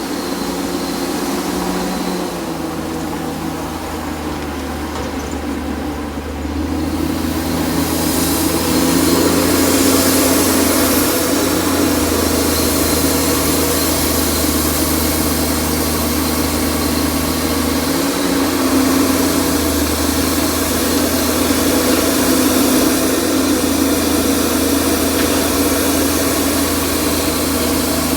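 A heavy earthmoving machine's diesel engine running steadily, getting louder about seven seconds in and holding there.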